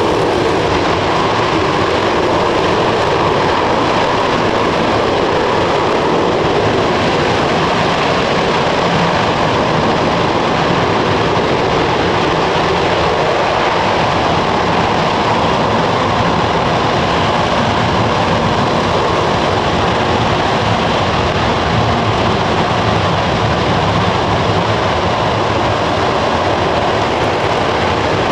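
RS-25 liquid-hydrogen/liquid-oxygen rocket engine firing steadily during a full-duration hot fire test: a loud, even, continuous rush of noise with no change.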